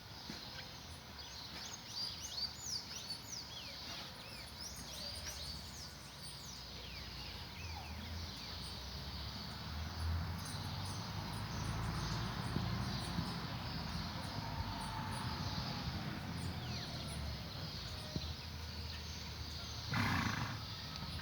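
Rural outdoor ambience: birds chirping in quick, high, downward-sweeping calls, thickest in the first few seconds and sparser after, over a steady low rumble. A brief louder rushing sound comes near the end.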